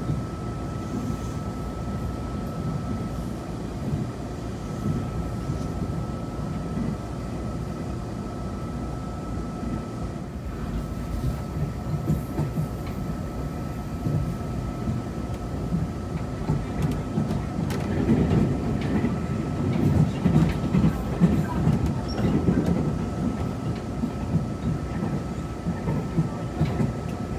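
Cabin noise of a Tze-Chiang express passenger car running on the line: a steady low rumble of wheels on rail with a thin steady tone above it. About two-thirds of the way through the rumble grows louder, with scattered knocks of the wheels over the track.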